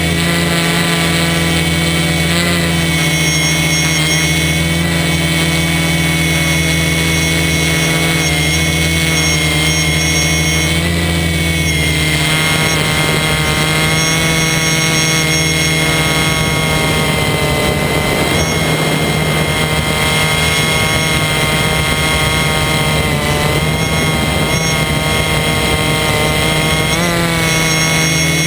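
DJI F450 quadcopter's motors and propellers whining steadily in flight, the pitch shifting about twelve seconds in and again near the end.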